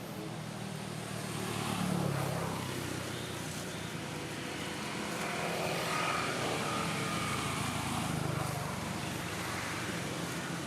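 Motor vehicle engine noise over a steady outdoor hiss, swelling about two seconds in and again around six to eight seconds in as vehicles pass.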